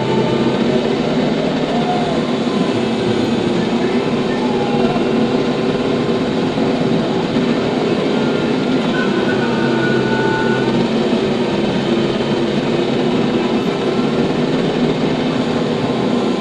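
TYM T574 tractor's diesel engine running steadily with a constant mechanical noise.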